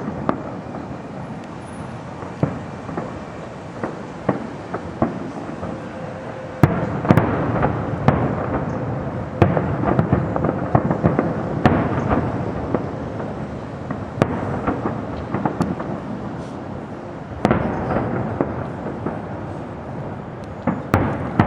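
Fireworks going off: irregular sharp bangs and pops with an echoing rumble. About seven seconds in they thicken into a louder, denser barrage.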